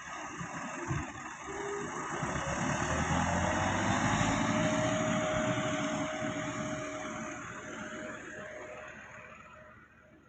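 Massey Ferguson 385 tractor's diesel engine running, growing louder to a peak a few seconds in and then fading away near the end.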